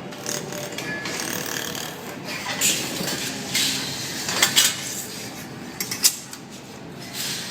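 A handful of sharp metallic clinks and knocks, two close pairs among them, over a steady machine hiss.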